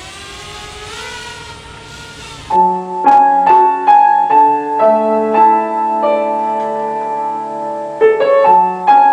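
Solo piano music, slow and melodic, with single notes struck and held; it comes in sharply about two and a half seconds in, after a steady background noise.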